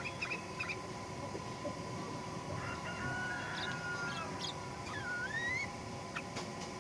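Sooty-headed bulbul (kutilang) calling: a few quick chirps at the start, a longer held note in the middle, and a whistled note that dips then rises near the end, over a steady faint hum.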